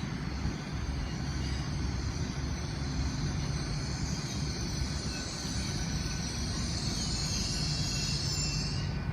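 Passenger train moving slowly through the station: a steady low rumble under a high metallic squeal that grows louder and cuts off suddenly just before the end.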